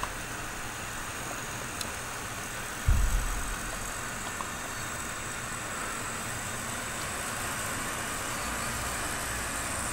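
HO-scale model train running along the layout track, a steady running rumble and whir. A brief low thump about three seconds in.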